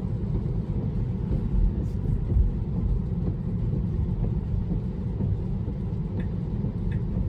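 Steady low road and tyre rumble heard inside the cabin of a moving electric car, with a few faint regular ticks near the end.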